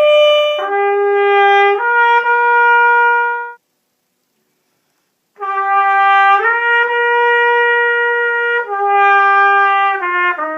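Saxophone playing two short phrases of held notes, each note stepping to the next with no gap, and a pause of about two seconds between the phrases.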